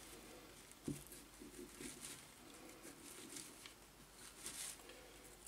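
Faint, irregular scratchy strokes of an old toothbrush scrubbing carbon dust and grime off a small electric motor's commutator, with one light knock about a second in.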